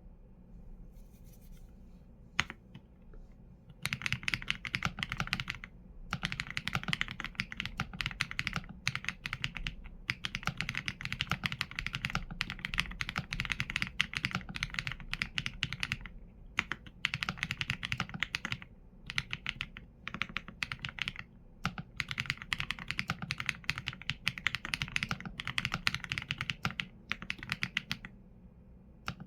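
Fast typing on a mechanical keyboard with Leobog Graywood V4 linear switches and PBT keycaps: rapid keystroke clacks in bursts, broken by short pauses. The first few seconds are quieter, with only a few scattered keystrokes before the steady typing starts.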